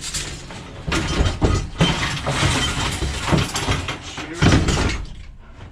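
Scrap metal being thrown onto a scrap pile: several loud clattering, clanging impacts of light iron pieces landing.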